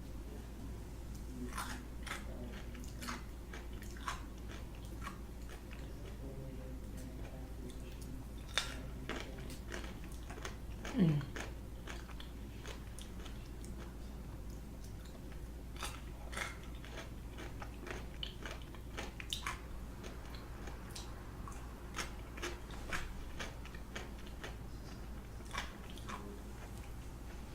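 Close-miked eating sounds: irregular chewing, mouth clicks and smacks, with a short falling vocal sound about eleven seconds in.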